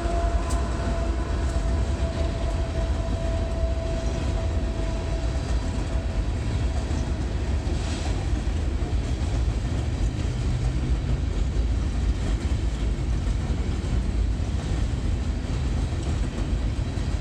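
Coal train rolling past: a steady low rumble of diesel locomotives and rail cars, with a thin steady whine that fades out about seven seconds in.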